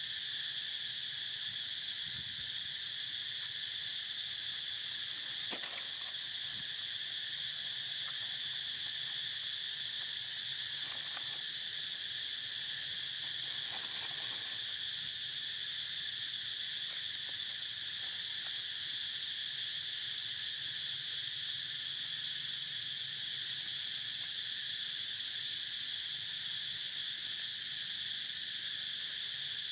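Steady outdoor insect chorus, an unbroken high shrill drone, with a few faint brief sounds mixed in.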